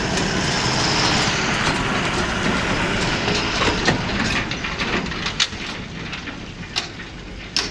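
Heavy cargo truck's engine running under load, with a clatter of sharp knocks from about three seconds in, easing off after about five seconds.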